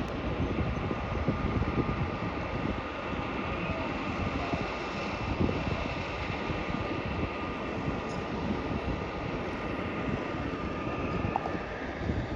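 Jet aircraft engine noise at an airport: a steady whine over a low rumble, with wind buffeting the microphone.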